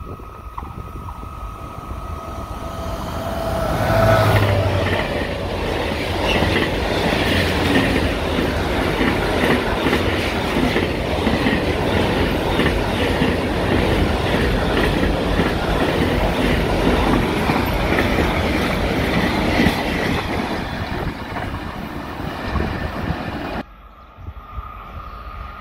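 Captrain Class 6000 locomotive hauling a long container freight train past at speed. The rumble builds as it approaches and peaks as the locomotive goes by about four seconds in. A long run of container wagons then rolls past with a dense, rapid clatter of wheels on the track, fading before the sound cuts abruptly to quieter trackside ambience near the end.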